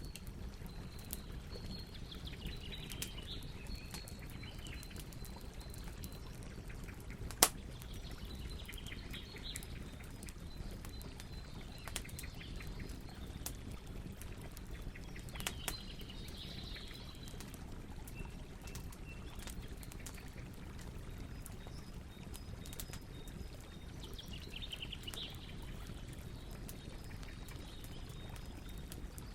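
Campfire crackling over a steady low rumble, with scattered pops and one sharp loud pop about seven seconds in. Birds chirp now and then.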